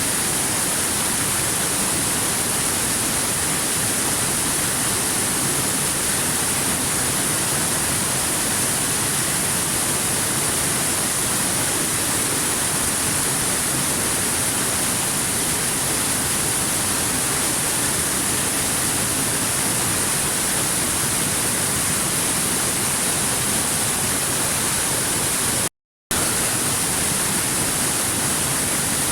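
Waterfall rushing in a steady, unbroken hiss, strongest in its high hiss. Near the end it cuts out to silence for a fraction of a second, then resumes.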